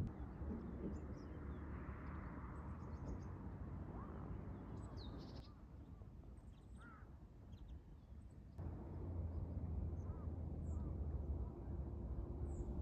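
Birds calling outdoors: scattered short chirps and calls over a steady low rumble of outdoor background. The rumble drops away abruptly for a few seconds in the middle, then returns.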